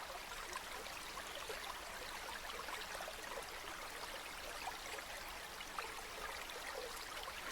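Faint, steady hiss like running or trickling water, with small flickers in it.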